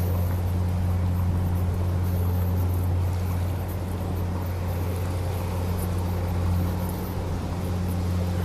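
Steady low drone of the Queen Beetle high-speed ferry's engines running, an even hum with no change in pitch.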